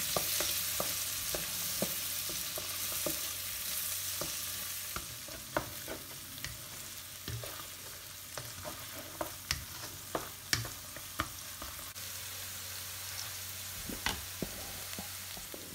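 Chopped shallots and garlic sizzling in butter in a stainless steel wok, with a spatula scraping and clicking against the pan as they are stirred. The sizzle is steady and eases a little after the first few seconds, while the spatula clicks come irregularly.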